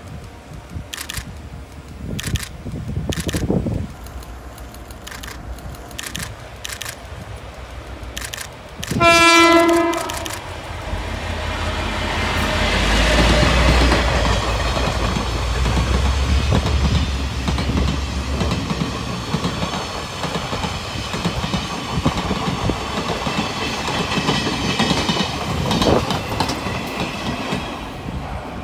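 Freight train hauled by Taiwan Railway diesel-electric locomotive R154 passing through a station. About nine seconds in comes one short horn blast on a single pitch. Then the locomotive's deep engine rumble swells as it goes by, followed by a long, steady clatter of the flat wagons' wheels over the rails.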